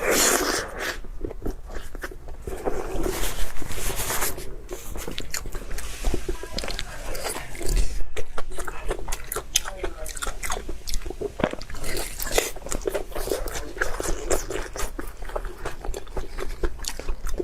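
Close-miked eating: a person biting and chewing food, with many quick wet smacks and crunches.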